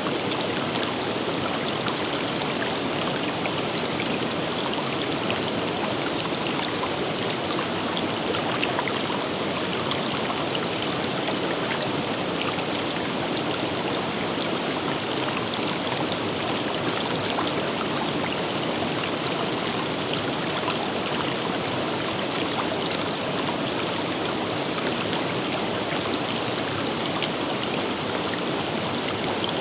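Steady flowing water of a river or stream, an even rushing and babbling with fine splashes throughout.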